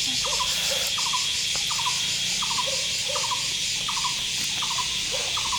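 Insects chirring steadily, with a short repeated call about every three-quarters of a second and some lower calls in between.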